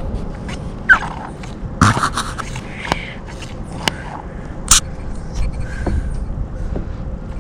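Scattered clicks, knocks and scraping from handling an Echo PB500T backpack blower while it is readied to start; its engine is not running.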